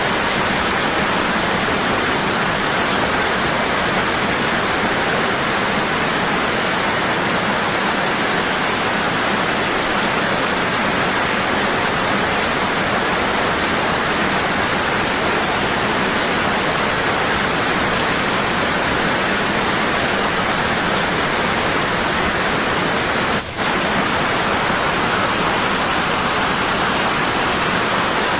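Waterfall: water falling heavily and constantly in an unbroken rush, with a momentary dip in level about three-quarters of the way through.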